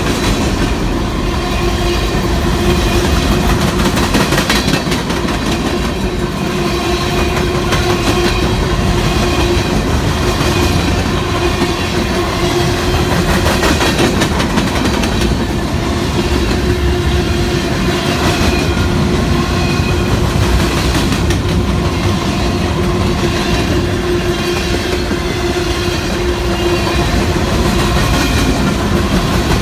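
CSX freight train rolling past, its cars' wheels clacking steadily over the rail joints, with a steady tone running underneath.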